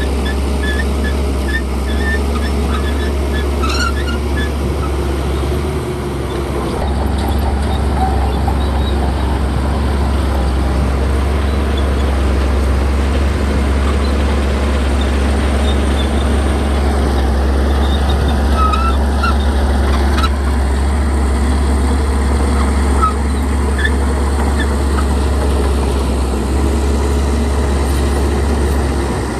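Heavy diesel earth-moving machinery running steadily with a constant low engine drone, with a scatter of short high chirps over it.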